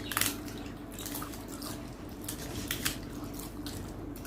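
Close-miked eating sounds, chewing with a few short sharp clicks, one just after the start and a couple more near the three-second mark.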